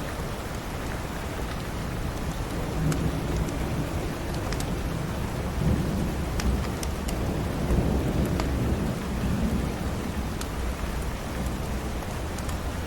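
Steady rain with a low rumble of thunder that swells about a quarter of the way in and fades again near the end, over scattered sharp crackles of a wood fire in a fireplace.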